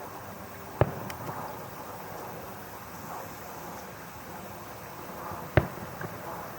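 Fireworks bursting: two sharp bangs about five seconds apart, each followed by a few lighter pops, over a steady background hiss.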